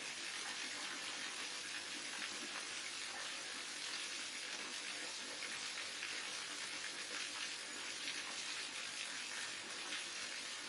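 Waterfall: a steady, continuous rush and splash of falling water.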